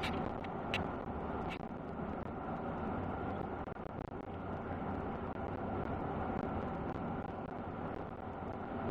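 A truck driving along at a steady pace: constant road and engine noise, with a few light clicks in the first couple of seconds.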